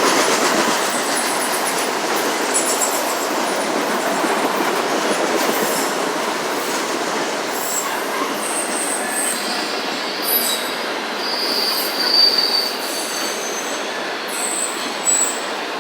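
CSX autorack freight cars rolling past: a steady rumble of steel wheels on rail, with short high-pitched wheel squeals coming and going from about halfway through.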